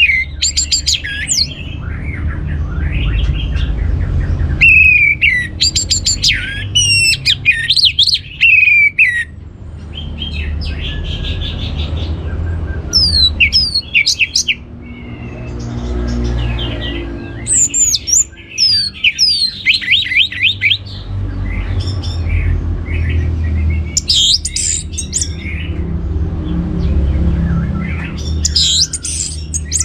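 Orange-headed thrush singing a varied song of rapid whistled notes, glides and trills, delivered in bursts with short pauses between them, over a steady low rumble.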